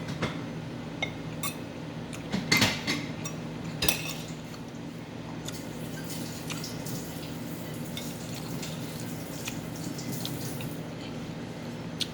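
Cutlery clinking and scraping against a plate during a meal, with a few sharp clinks, the loudest two about two and a half and four seconds in, over a steady low hum.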